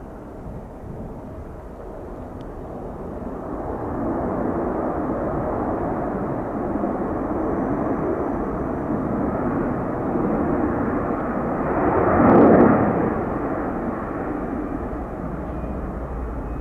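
Jet airliner going by, its engine noise building for several seconds, loudest about twelve seconds in, then fading.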